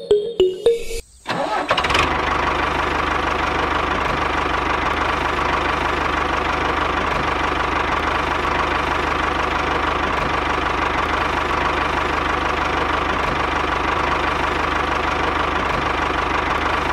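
Small engine of a DIY mini tractor starting about a second in and then running steadily at an even speed.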